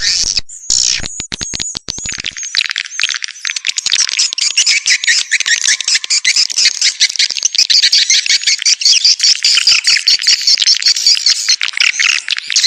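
Swiftlet call sound: a dense, continuous chorus of rapid high twittering chirps and clicks from many swiftlets, the lure recording played to draw wild swiftlets into a nest house. The first two seconds hold a run of sharp clicks before the chorus thickens.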